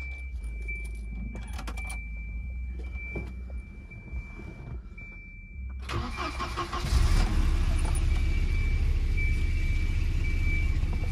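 Volvo 240 engine being started for the first time after a cooling-system refill: it cranks about six seconds in, catches, and settles into a steady run. Before that there is only a low hum, a thin steady high tone and a few small clicks.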